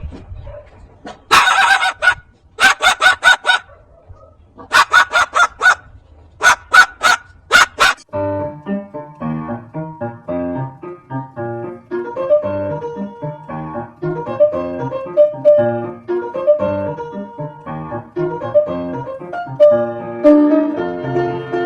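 A bird gives four bursts of rapid, harsh repeated calls over the first eight seconds. Then piano music starts and carries on.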